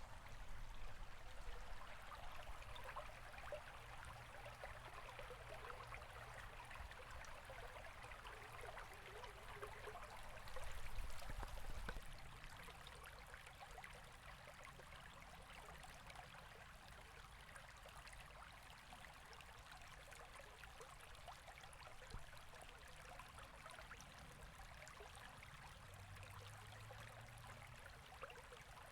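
Faint, steady rushing and babbling of river water, swelling briefly about eleven seconds in.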